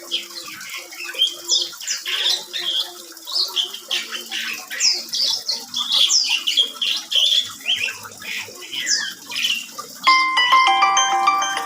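Asian pied starling (jalak suren) singing a long, varied run of chattering, whistled and squawky notes. Near the end, chiming bell-like music cuts in.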